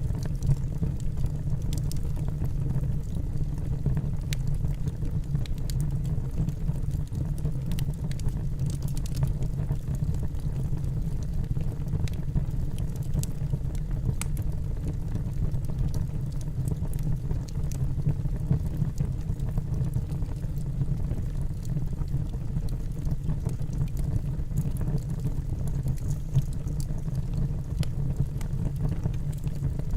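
Wood logs burning in a fireplace: a steady low rumble of the flames with frequent small crackles and pops from the burning wood.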